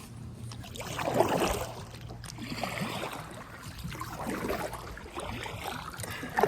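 Kayak paddle dipping into the river, four splashing strokes about a second and a half apart.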